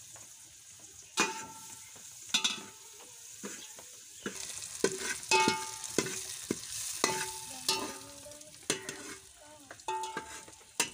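Spice masala sizzling as it fries in oil in a metal pot, stirred with a metal ladle that scrapes and knocks the pot about once a second, each knock giving a short metallic ring.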